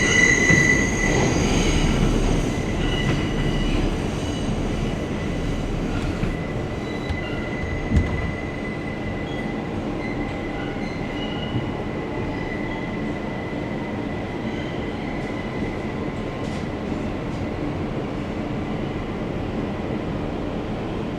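R160B subway car running through the tunnel, heard from inside: a steady rumble of steel wheels on rail. A high-pitched wheel squeal at the start fades over the first two seconds, and there is a single sharp knock about eight seconds in.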